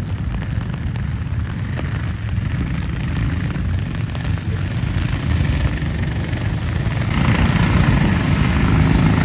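Racing go-kart engines running on the circuit, heard from trackside as a steady low drone that grows louder about seven seconds in.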